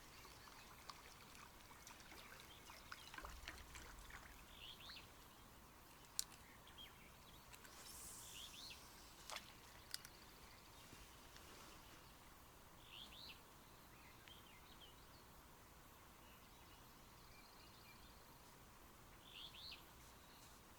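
Near silence, with faint, short bird chirps every few seconds and a few faint clicks.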